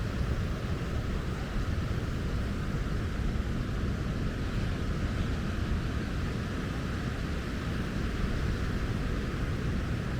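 Steady outdoor noise dominated by a low, unsteady rumble, typical of wind buffeting the microphone on an open seafront, with a fainter hiss above it.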